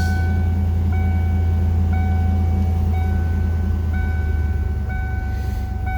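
1992 Lincoln Mark VII LSC's 5.0-litre V8 idling steadily shortly after a cold start, with an electronic warning beep from the dash repeating about once a second.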